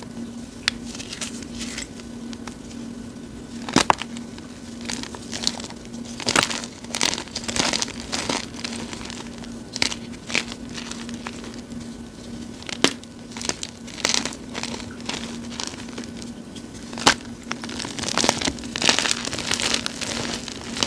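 Hand-crushed gym chalk blocks, mixed with cornstarch, crunching and crumbling in irregular bursts, with a few sharp cracks as pieces break.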